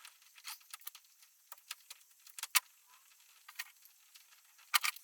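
Small sharp clicks and rattles of electrical wires and a plastic wiring connector being handled and snapped together, loudest twice, about two and a half seconds in and near the end.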